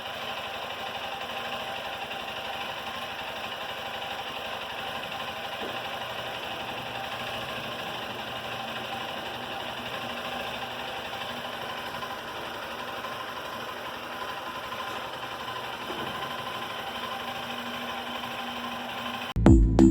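Small motorcycle engine idling steadily, without revving.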